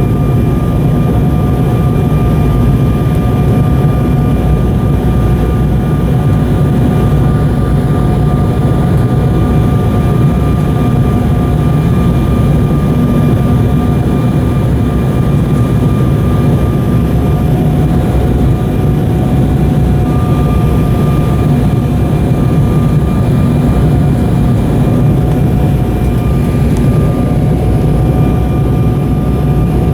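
Cabin noise inside an Embraer 190 airliner in flight: a steady, loud rumble of airflow and the General Electric CF34 turbofan engines, with a few steady whining tones running through it.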